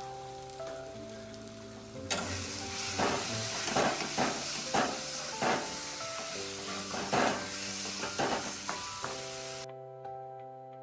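Chicken gizzards sizzling as they fry, with repeated stirring scrapes through them. The sizzle gets louder about two seconds in and cuts off suddenly near the end, over steady background music.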